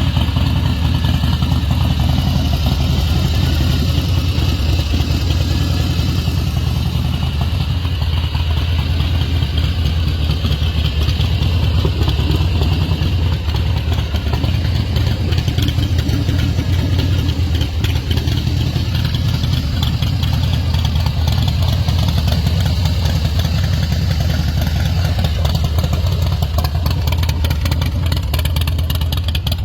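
V-twin engine of a 2004 American IronHorse Texas Chopper motorcycle running at a steady idle.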